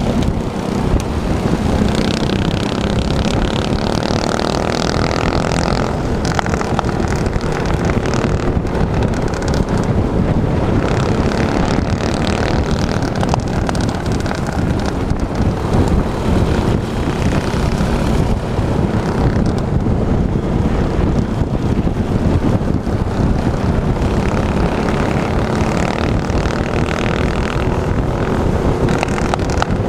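Minibike's small engine running steadily, its pitch drifting up and down a little over heavy rumble.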